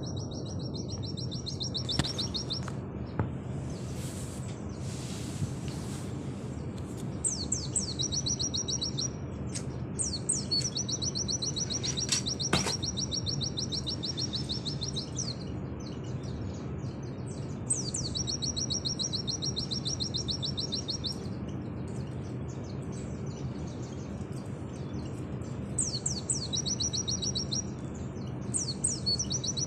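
White-eye (pleci) singing long, rapid high trilled phrases of a few seconds each, every phrase opening with a few quick downward sweeps, repeated after short pauses over a steady low hum. A sharp click sounds about halfway through.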